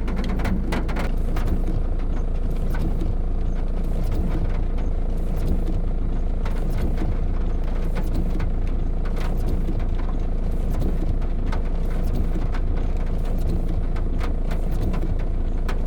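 Steady roar of storm wind and rain, with scattered crackles and clicks throughout.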